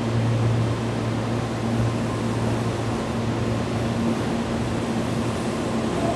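Keihan electric commuter train humming steadily at the station, a low drone with a fainter higher tone above it.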